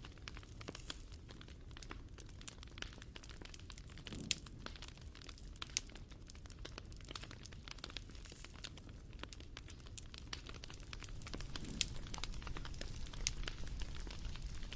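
Wood fire crackling: a steady low rumble with a dense scatter of small crackles and a few sharper pops.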